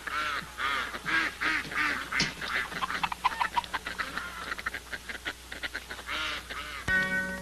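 Honking waterfowl calls in a quick series, several a second, breaking off after about three seconds and starting again near the end. In the last half-second a clarinet-led music cue comes in.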